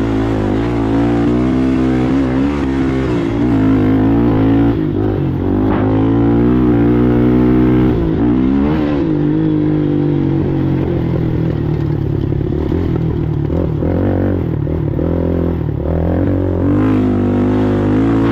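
Racing ATV engine running hard, its pitch rising and falling again and again as the throttle is opened and closed.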